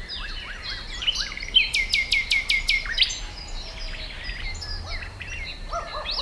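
Several songbirds singing and calling in a rural ambience, with overlapping chirps and whistles. About a second and a half in, one bird gives a quick run of about six notes, each sweeping down in pitch.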